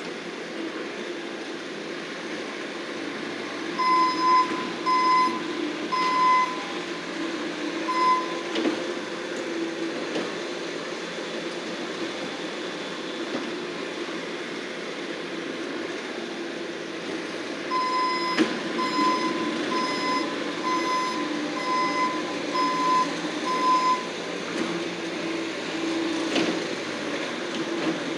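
Bobcat skid steer running steadily, its backup alarm beeping about once a second in two runs as it reverses while grading.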